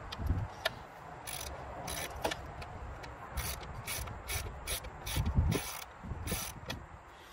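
Socket wrench ratchet clicking in short, irregular strokes as fasteners are turned on the engine, with a few dull knocks of tools against metal.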